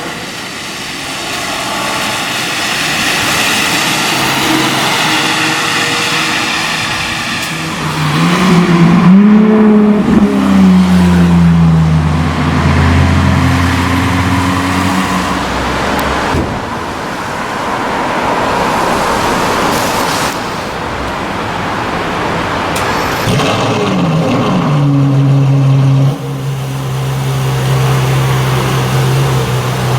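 Ferrari LaFerrari's V12 engine running, with a rev that rises and falls about eight seconds in and another about twenty-four seconds in, then settling into a steady low idle.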